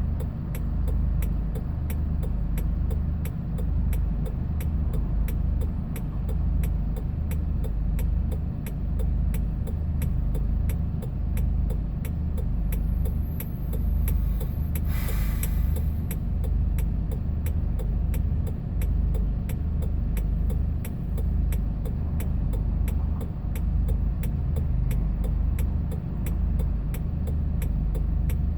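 Hyundai Porter II box truck driving, its engine and road noise making a steady low drone. A faint regular ticking runs through it, about two ticks a second, and a short hiss comes about halfway through.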